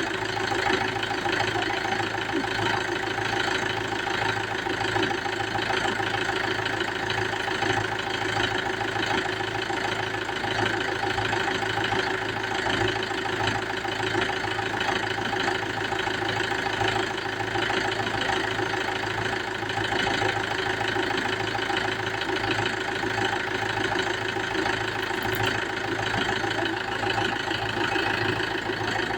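Mahindra tractor's diesel engine idling steadily at a constant speed, with an even, fast firing pulse.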